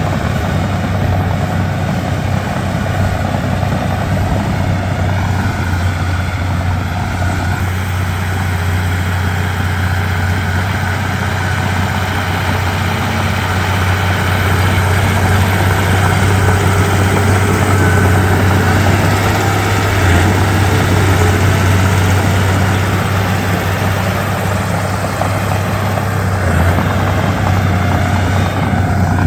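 Komatsu D31P bulldozer's diesel engine running steadily with a deep low throb, getting somewhat louder about halfway through and easing back near the end.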